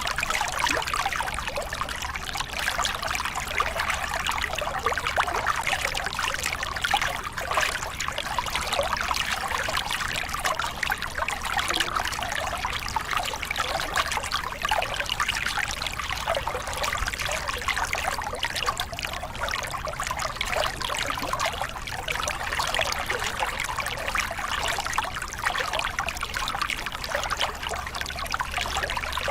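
Small river cascade: water spilling and splashing steadily over rocks, a continuous bubbling rush.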